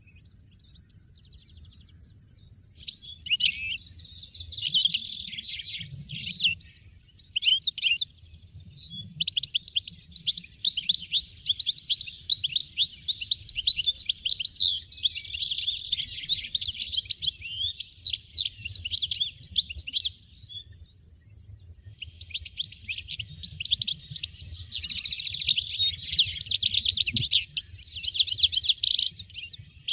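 European goldfinch singing: long runs of fast, tinkling twitters. The song breaks off briefly about two-thirds of the way through, then starts again.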